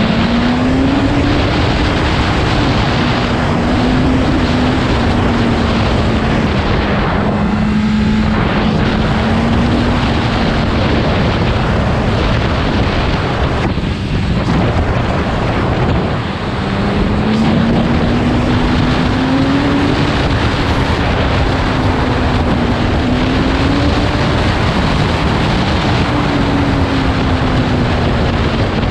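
BMW M 1000RR's inline-four engine running under way, its pitch rising and falling with the throttle, under heavy wind rush on the microphone. Near the middle the engine sound drops away briefly, then climbs again.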